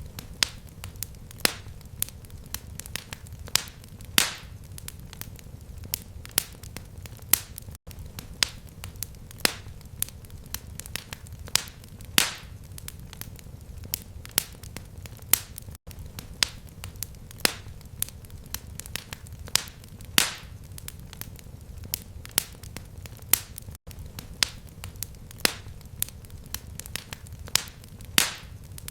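Fireplace fire crackling: irregular sharp pops and snaps, several a second, over a steady low rumble. The sound cuts out briefly about every eight seconds.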